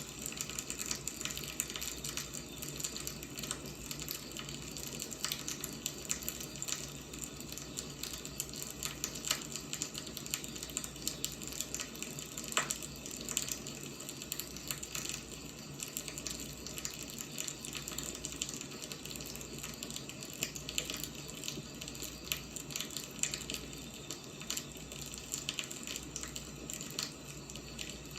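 Firewood burning and crackling: a steady hiss of flames with many small, irregular snaps and pops, and one sharper pop about twelve seconds in.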